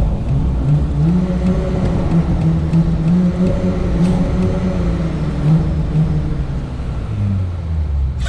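Audi S4 3.0 TFSI V6 engine and exhaust. The revs rise about a second in, hold fairly steady for several seconds, then fall back near the end.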